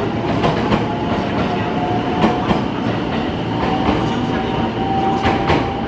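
JR West 223 series electric train departing and rolling past at low speed, its wheels clacking in pairs over the rail joints with a steady whine underneath.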